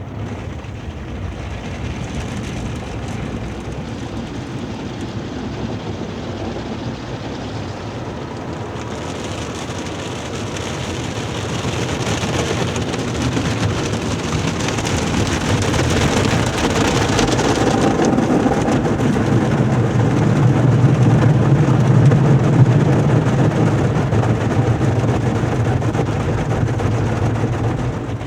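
Automatic car wash running over the car, heard from inside the cabin: a steady rushing of water spray on the body and roof that starts suddenly and builds, with a low hum from the machinery strongest about two-thirds through.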